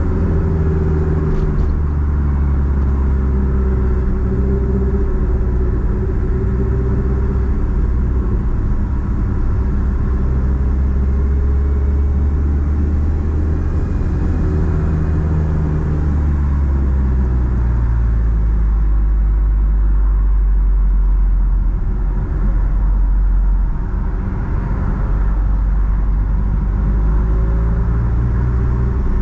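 Nissan Platina's four-cylinder engine heard through a straight-pipe exhaust while driving, a loud low rumble whose note rises and falls gently with the throttle. After about 18 seconds it settles to a lower, steadier drone, and the engine note picks up again near the end.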